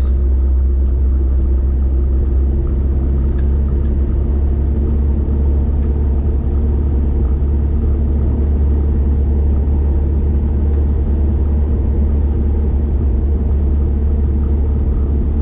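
Steady low rumble of a car driving along a highway: road and engine noise that holds an even level throughout.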